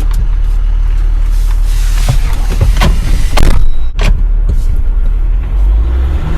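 Jeep Wrangler driving over a rough dirt road: a steady, loud low rumble, with repeated knocks and rattles from bumps.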